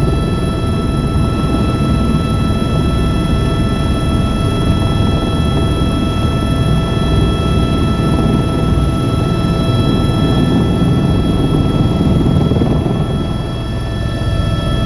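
Helicopter running steadily: a loud, even rumble with a steady high whine over it. The level dips slightly near the end.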